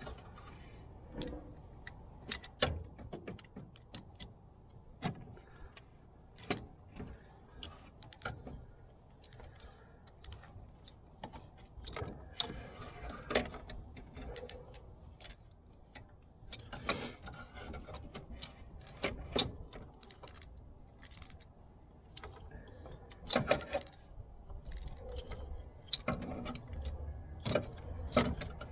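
Hand tools being handled in car work: scattered metallic clicks and clinks at irregular intervals, a few sharper knocks, with rubbing and rustling between them.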